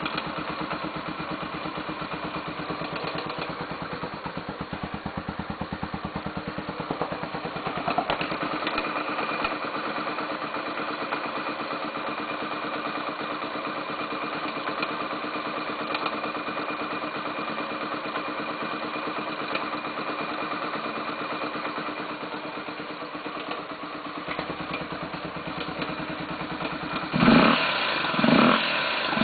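Honda XR 250 Tornado's single-cylinder four-stroke engine idling steadily, then blipped twice near the end with quick revs that rise and fall. The owner hears a 'tec, tec, tec' tapping from the top of the engine at low revs while it is cold, which he takes for the valve tappets.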